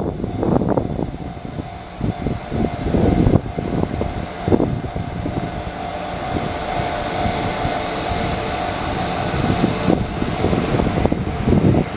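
A train passing a railway level crossing: an uneven low rumble, with the crossing's warning bell ringing steadily over it until near the end.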